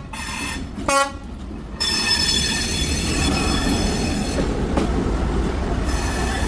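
Train passing close by on a street-side track: a short horn blast about a second in, then from about two seconds on the steady rumble of the train rolling past with high-pitched wheel squeal above it.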